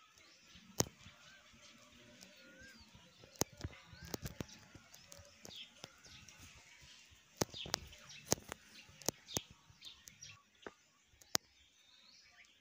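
Faint high bird chirps, with sharp clicks and ticks scattered through, bunched around four seconds in and again around eight to nine seconds in.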